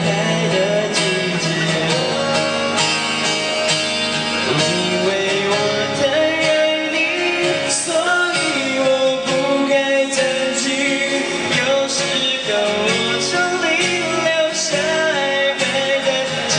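A pop band playing an instrumental break between sung verses, with a guitar carrying a bending melodic lead line over the accompaniment.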